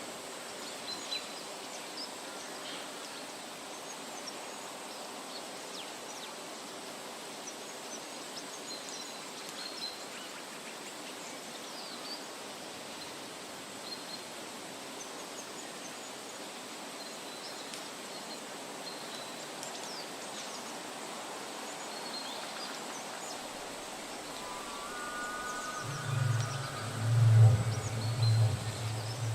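Forest ambience: a steady hiss with scattered short bird chirps. A few seconds before the end, a loud low rumble rises over it.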